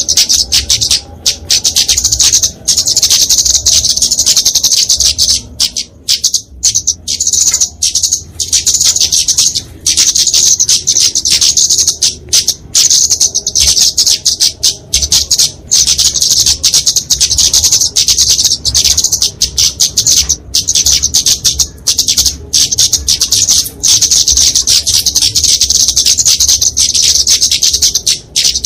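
Flowerpecker (kemade) giving its fighting calls: a dense, nearly unbroken chatter of rapid high-pitched notes, with a few brief breaks about six to eight seconds in.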